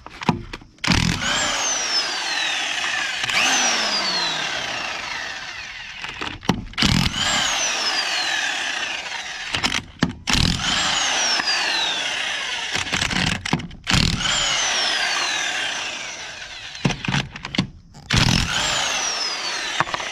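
Electric impact wrench running in several long bursts of a few seconds each, with brief pauses between, spinning off the wheel's lug nuts.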